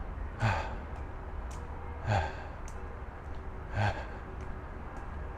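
A man breathing hard and out of breath from climbing a hill trail: four heavy, voiced exhalations, each a short sighing out-breath falling in pitch, about one every second and a half to two seconds.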